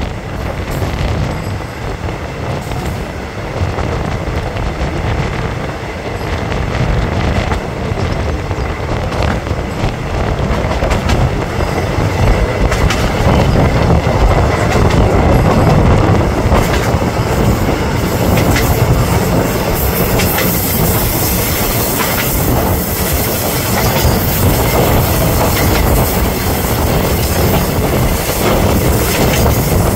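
Diesel railcar express train running on a curving line, heard from an open carriage window: steel wheels clatter over the rail joints with some wheel squeal. It gets louder about halfway through.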